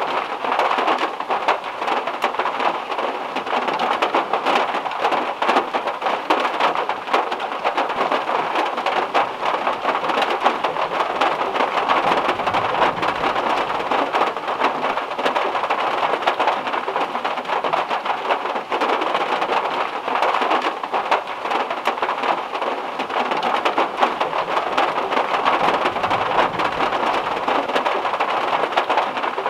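Heavy rain drumming steadily on a Volkswagen Beetle's metal roof, a dense patter of countless sharp drop hits. A faint low rumble comes in about twelve seconds in and again near the end.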